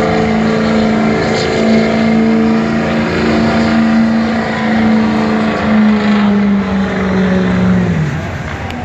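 Ford Super Duty pickup's engine held at high revs under heavy load as it pulls the sled, running loud and steady. Near the end the revs fall away as the pull ends.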